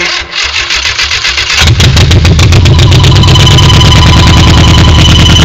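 1966 Triumph Spitfire's four-cylinder engine being cranked by the starter, catching after about a second and a half and running fast. About three seconds in, a steady high-pitched whine comes in over the engine, the whine that appears only while the car is running.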